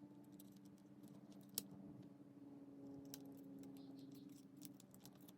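Near silence with scattered light clicks and taps of small parts being handled, one sharper click about a second and a half in, over a faint steady hum.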